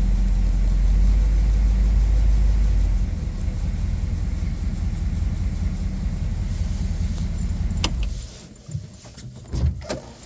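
1956 Ford Thunderbird's Y-block V8 idling on a cold start, its low note easing down a little about three seconds in. The engine is switched off about eight seconds in, followed by a few light clicks and knocks.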